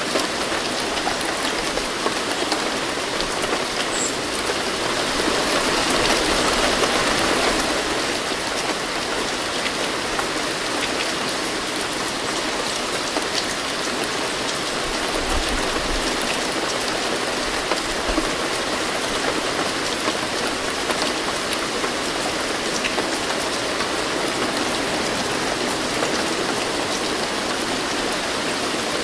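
Steady rain falling, a dense patter of drops, swelling a little louder about six seconds in before settling back.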